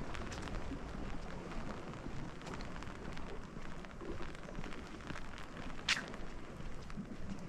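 Steady rain falling, with scattered drops ticking close by and one sharper, louder tick about six seconds in.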